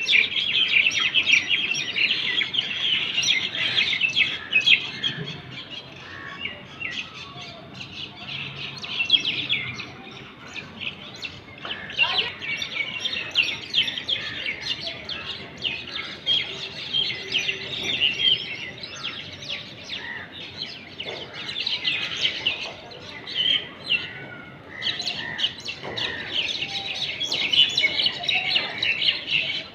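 Several small birds chirping and chattering rapidly, many short high chirps overlapping, as birds squabbling. The chatter is loudest in the first few seconds and again in the second half.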